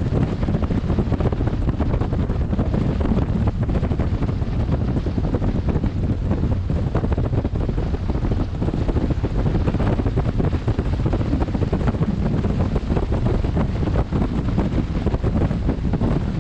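Wind buffeting on a helmet-mounted camera's microphone on a motorcycle ridden at speed: a steady, dense low rumble of wind noise without letup.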